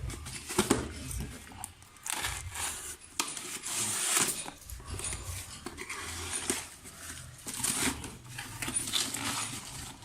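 A speaker's retail box being opened by hand: packaging handled and pulled apart, with irregular clicks, knocks and rustling.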